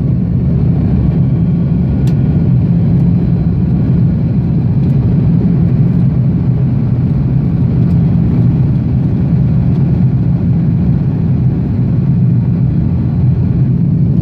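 Airbus A330-200's jet engines heard inside the cabin over the wing after takeoff: a loud, steady low drone with an even rush of air noise.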